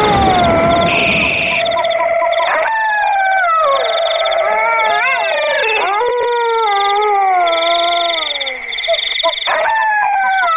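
Canine howls, called wolf howls: several long, drawn-out howls, each sliding down in pitch, with new ones starting about two and a half, six and nine and a half seconds in and overlapping the last. Under them runs a steady high, pulsing trill.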